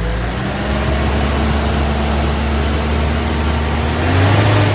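Toyota AE86 Sprinter Trueno's 4A-GE twin-cam four-cylinder given a light rev off idle, held at a steady raised speed, then pushed a little higher near the end. It is revved to bring out any hidden engine noise.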